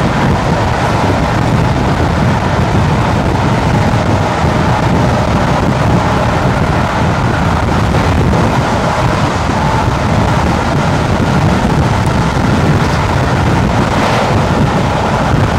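The train hauled by A1 Pacific steam locomotive 60163 Tornado running at speed: a steady, loud rumble with wind blowing on the microphone.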